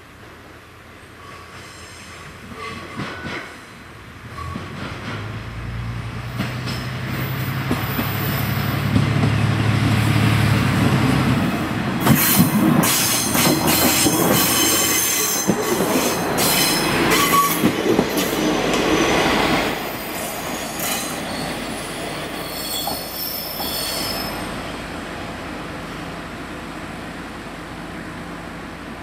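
Diesel train drawing near, its engine drone building over several seconds. Then its wheels squeal and clatter loudly on the curved rails for several seconds before the sound fades.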